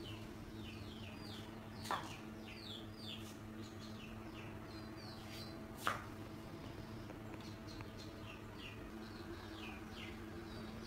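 Small birds chirping, many short falling chirps over a low steady hum, with two light clicks about two and six seconds in.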